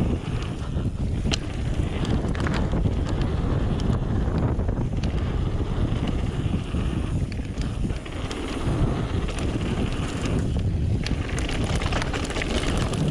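Mountain bike descending a dirt trail at speed: wind buffets the action-camera microphone with a steady low rush, over the tyres on dirt and frequent short rattles and clicks from the bike.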